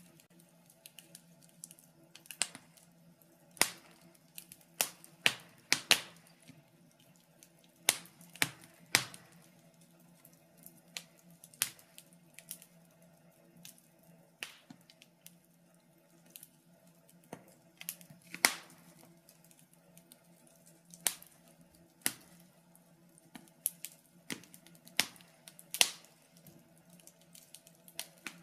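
Wood fire burning in a fireplace, crackling with irregular sharp pops and snaps of uneven loudness over a faint steady low hum.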